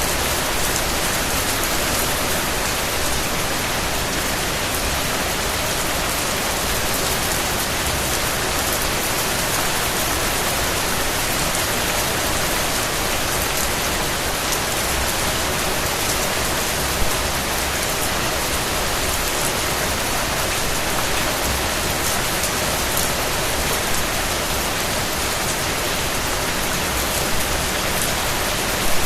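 Steady, even rain falling, with individual raindrop hits pattering on a surface and a few louder drops now and then.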